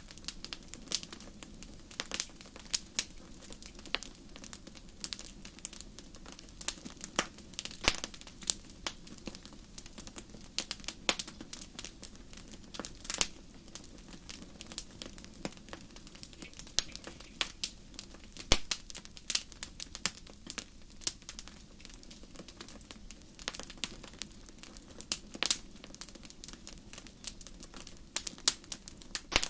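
Wood fire crackling in a fireplace: irregular sharp pops and snaps, several a second, some louder, over a low steady hiss of the burning.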